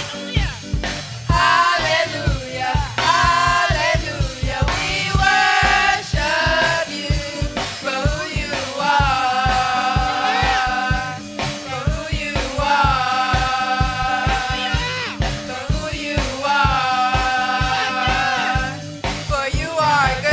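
Live gospel praise song: several singers over drums keeping a steady beat, the voices holding long notes in three phrases in the second half.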